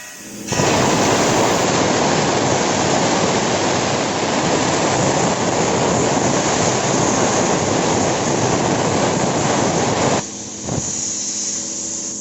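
Hypertherm Powermax65 plasma cutter's arc cutting under CNC control: a loud steady hiss that starts about half a second in and cuts off about ten seconds in, leaving a quieter hiss with a faint hum.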